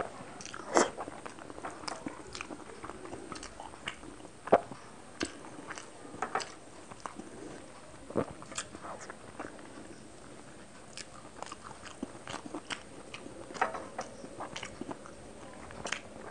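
Close-miked chewing and wet mouth smacking of a person eating spicy fish curry and rice by hand, with irregular sharp lip smacks and clicks throughout.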